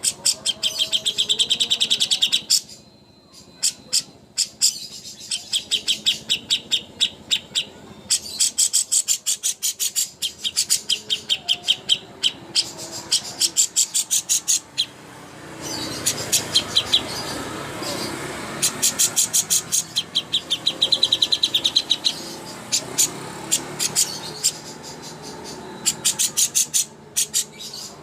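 Songbird song used as a masteran training recording for greater green leafbirds: long, very fast chattering trills of high notes, each run lasting one to a few seconds with short gaps between.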